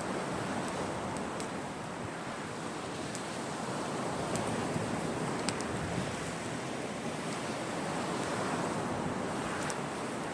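Sea waves washing onto the shore in a steady rush that swells and eases, with a wood fire crackling in scattered sharp pops.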